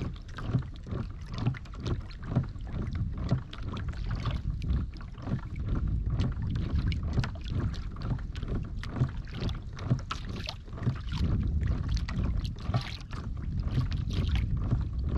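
Water slapping and splashing irregularly against a small fishing boat's hull, over a steady low rumble of wind buffeting the microphone.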